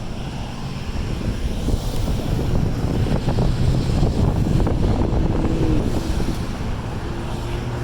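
Road traffic moving again over the reopened railroad crossing: a steady low rumble of vehicles with wind buffeting the microphone.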